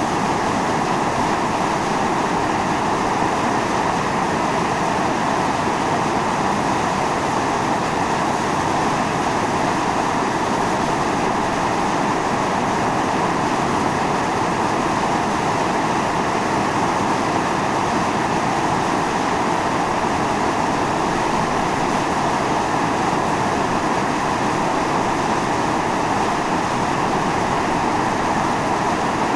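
Volcanic fumarole on Atosanupuri (Mt. Iō) venting steam under pressure: a continuous, steady hiss with no breaks.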